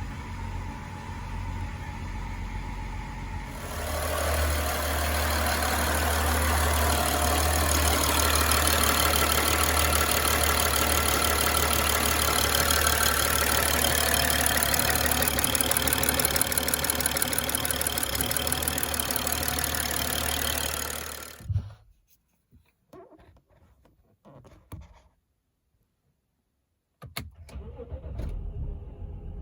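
Turbocharged N55 inline-six engine of a 2011 BMW X5 35i running steadily with a strong low hum, growing louder about four seconds in, then cutting off abruptly with a few faint clicks after.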